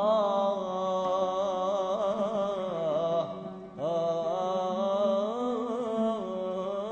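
A male singer holds two long, wavering, ornamented notes in an Iraqi song. The second note begins about halfway through with an upward slide.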